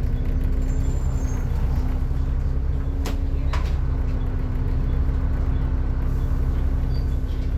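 Volvo B7TL bus's diesel engine running steadily, with the loud, steady hoover-like whine the bus is known for over a low engine drone. Two short sharp sounds come about three seconds in, half a second apart.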